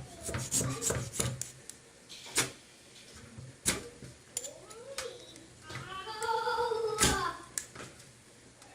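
Ferrocerium rod being struck to throw sparks onto kerosene-soaked wood shavings: a series of sharp, separate scraping strikes. About two-thirds of the way through, a short high wavering call like a voice or a meow.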